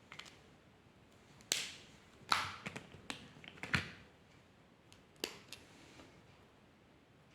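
A handful of sharp clicks and taps from small hard objects being handled, irregularly spaced over about four seconds, the loudest about a second and a half and two and a half seconds in.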